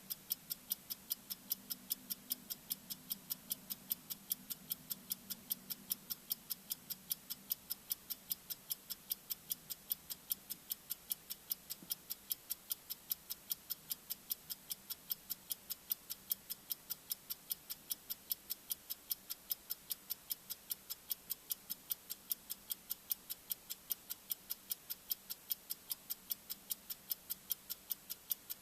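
Bomb-timer ticking sound effect: a sharp, high-pitched tik-tik tick repeating rapidly and evenly, like a clock counting down. A faint low hum under the ticks fades out in the first few seconds.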